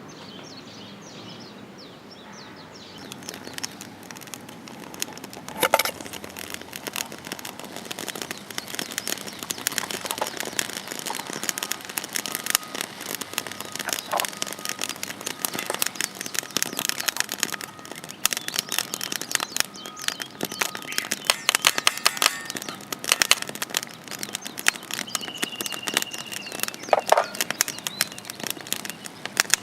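Wood campfire crackling and popping, with dense, irregular snaps that grow busier a few seconds in. Birds chirp faintly in the first seconds.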